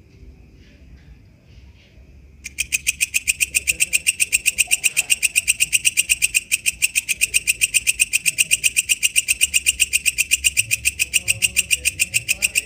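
Walang kecek insect calling. After about two and a half seconds of faint background, a long, even train of sharp, high clicks, about seven a second, starts abruptly.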